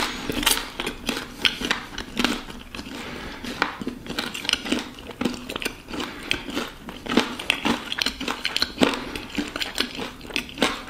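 A person chewing a fried gato patate, a sweet-potato dumpling with coconut filling, with many short, irregular crunches and clicks.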